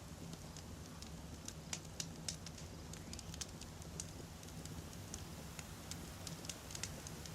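Wood campfire burning, with irregular sharp crackles and pops of burning firewood over a low, steady rumble.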